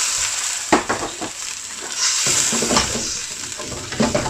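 Onions in hot oil sizzling hard in a pan as freshly added water boils off, with a spoon knocking and scraping against the pan as they are stirred. The hiss eases about a second in and swells again around the middle.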